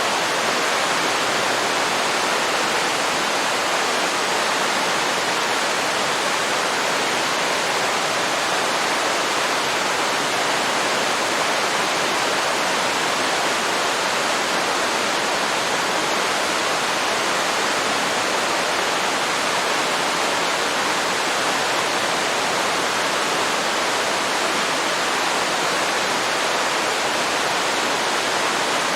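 Waterfall pouring into a river: a steady, even rush of falling water with no change in level.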